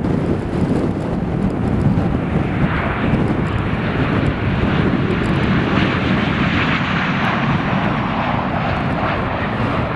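An airplane's engines running loud, with a rushing noise that builds about two and a half seconds in and stays strong, and a faint whine falling in pitch in the second half. Heavy rumble of strong wind on the microphone underneath.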